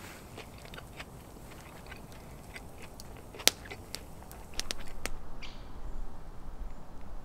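Close-up chewing of a crunchy fish-and-lettuce tortilla burrito, a run of small crunches and clicks with one sharper click midway. From about two-thirds in it gives way to a steady low rumble.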